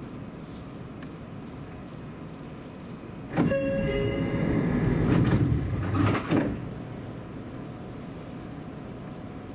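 Seibu Railway train running steadily on the line. A sudden loud rush starts about a third of the way in, with ringing tones at its start, and lasts about three seconds before the steady running noise returns.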